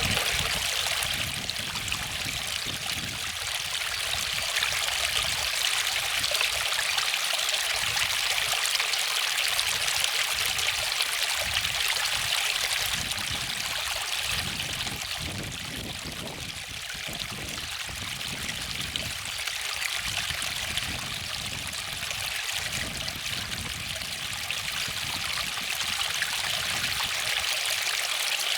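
Waterfall: a steady rush and splash of falling water, easing slightly about halfway through and building again near the end.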